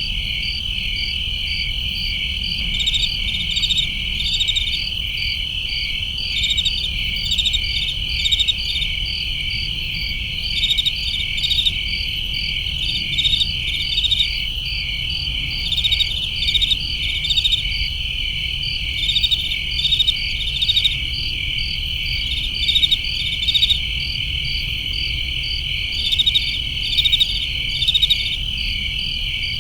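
A chorus of crickets: a steady high trill with rhythmic chirps pulsing several times a second on top, swelling into louder clusters every second or two, over a low background rumble.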